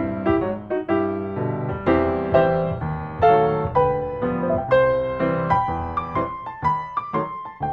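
Background piano music: a slow, gentle melody of single notes over soft chords.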